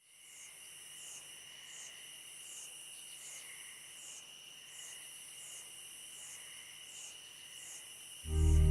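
Insects chirping: a steady high trill with a regular pulse about every three-quarters of a second, fading in at the start. Near the end a much louder low sustained tone cuts in, the start of music.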